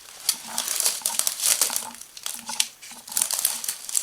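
Close, dry rustling and crackling of leaves and brush being pushed through, coming in uneven surges with a short lull near the middle.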